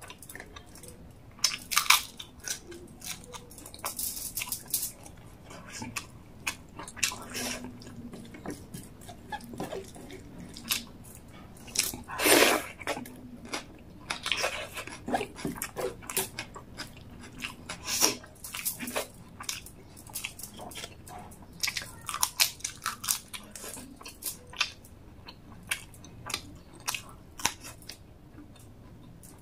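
Close-up eating sounds: chewing rice and chicken gravy eaten by hand, with crisp crunches of a papad and wet mouth sounds, made up of many short irregular crackles. One longer, louder noise comes about twelve seconds in.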